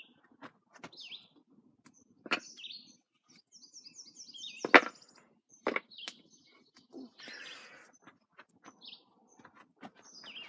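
Small birds chirping, with a few sharp wooden knocks as boards are set in place, the loudest about five seconds in, and a short scrape a couple of seconds later.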